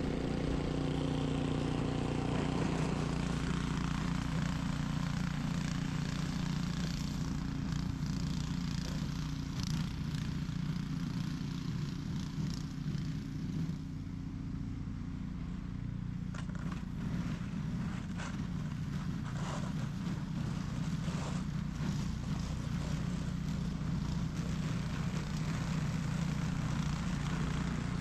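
Ariens 21-inch professional snow blower's engine running steadily while it clears snow, with short scraping ticks scattered through the middle.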